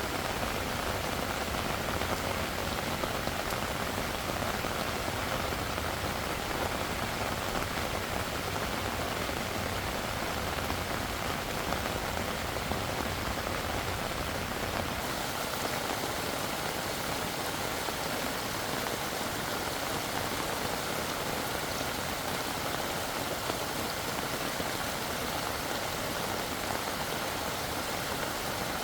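Steady heavy rain falling, an even hiss with no distinct drops or knocks. About halfway through the sound turns thinner and hissier.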